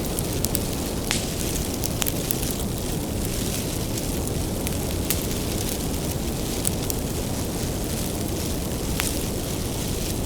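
Bonfire of firewood burning, a steady low rumble of flames with scattered sharp crackles and pops from the wood.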